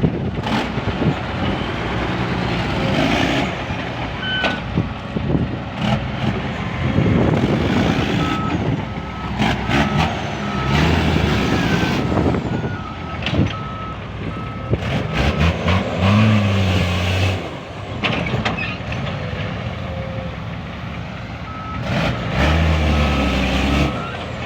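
Concrete pump truck at work: the diesel engine runs and revs up twice, with knocks and short hissing bursts. An electronic warning beeper sounds in a regular string of beeps about a third of the way in, and again near the end.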